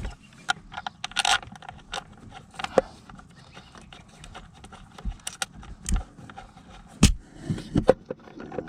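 Scattered metal clinks, scrapes and knocks of bolts and hand tools while the recoil starter's mounting bolts are fitted, with a scrape about a second in and the loudest knocks about seven and eight seconds in.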